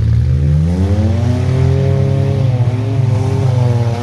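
A competing vehicle's engine revving hard on the tough-truck course: its pitch climbs over the first second or so, holds high, dips briefly about two and a half seconds in, then holds high again.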